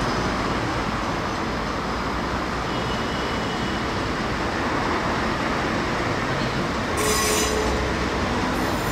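Fukui Railway 200-series electric railcar Moha 202 rolling slowly through a sharp curve from street track, with steady wheel-and-rail running noise and wheel squeal from the curve. A louder, sharp squeal comes about seven seconds in.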